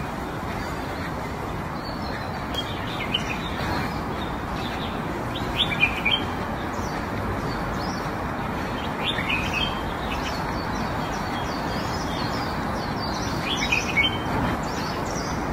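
Small birds chirping now and then over a steady background hiss, with short clusters of chirps near 6 seconds and again near the end.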